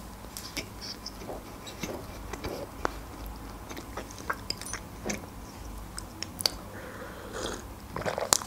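Close-miked chewing of a mouthful of croissant, with irregular small wet mouth clicks and smacks. A sharper click comes near the end.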